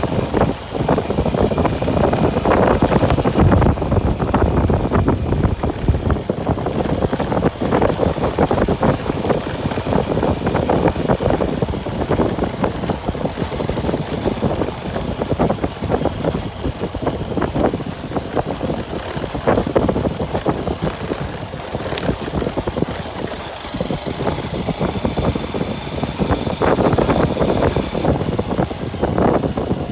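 Motorcycle engine running while it is ridden, with wind rushing and buffeting the phone's microphone in a steady rough noise.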